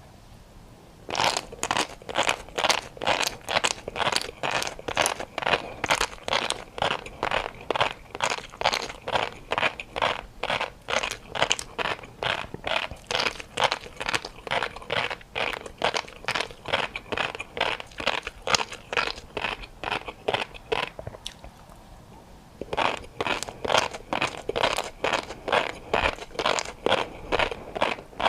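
A person chewing crunchy food close to the microphone, in even crunches about two a second. The chewing pauses briefly near the end, then resumes.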